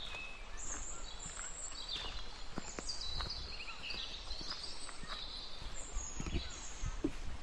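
Birds singing high, warbling and trilling phrases in short bursts, over a steady outdoor hiss with scattered light taps.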